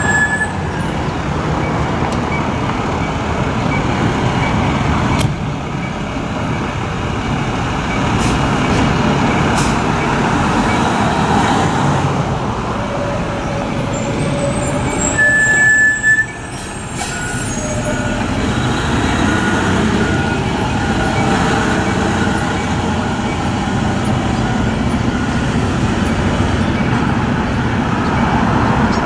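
Fire trucks' diesel engines running close by, with one short high beep about halfway through and an evenly repeating beeping after it, like a backup alarm.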